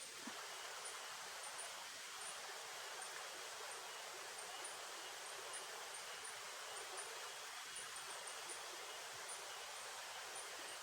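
Steady rain falling on the forest, an even hiss with faint short high peeps scattered through it.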